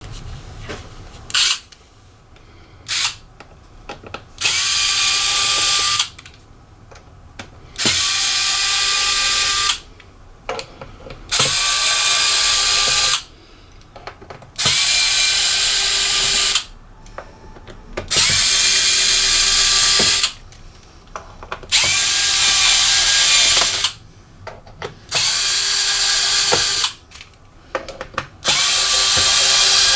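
Electric screwdriver run in about eight short bursts of roughly two seconds each, each starting with a short rising whine, unscrewing the laptop's case screws. Small clicks come in the pauses between runs.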